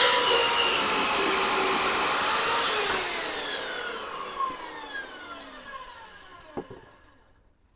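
Electric power saw motor running at full speed, then switched off about three seconds in and winding down with a long falling whine. Two light knocks come during the spin-down.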